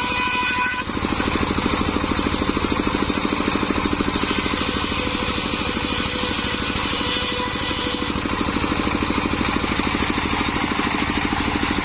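Engine driving a homemade circular sawmill, running steadily with a fast, even beat. A brighter rushing sound joins it between about four and eight seconds in.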